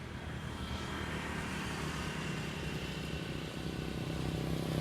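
Motor vehicle engine running steadily, growing louder toward the end as it comes closer.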